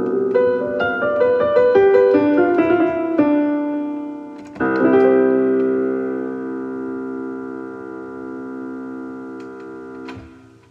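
Background piano music: a run of notes, then a final chord struck about halfway through that rings and slowly fades, cut off shortly before the end.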